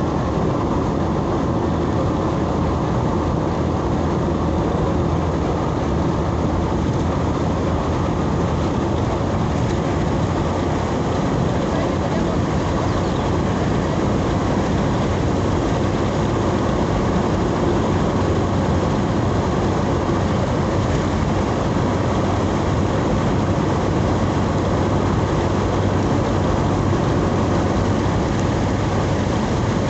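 Steady engine and road noise of a vehicle driving along a highway, heard from inside the cabin, with a constant low hum.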